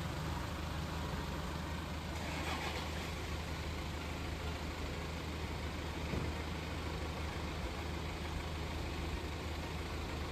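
BMW 525d diesel engine running steadily at a low, even speed.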